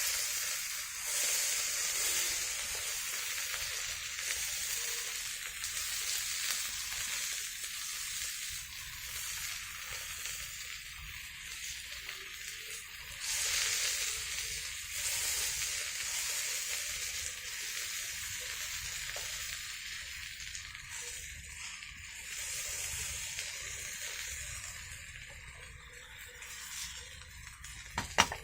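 Food sizzling as it fries in hot oil in a pan, a steady crackling hiss that swells briefly about halfway through.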